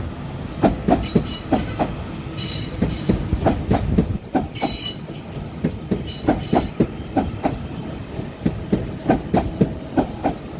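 Two arriving trains, a Class 195 and a Class 397, rolling in slowly, their wheels clattering irregularly over rail joints and pointwork. Two brief high squeals from the wheels about two and a half and four and a half seconds in.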